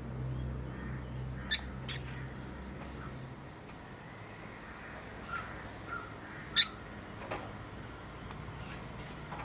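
Pet lovebirds calling: two loud, short, shrill squawks about five seconds apart, the first followed closely by a softer one, with a few faint chirps in between.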